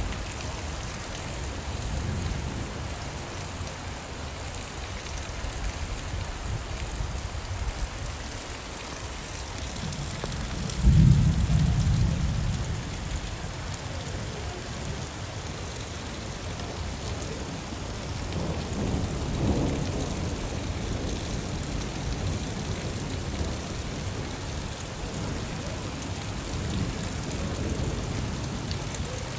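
Steady rain with rolls of thunder. The loudest thunderclap breaks in suddenly about a third of the way through; softer rumbles come about two-thirds of the way through and again near the end.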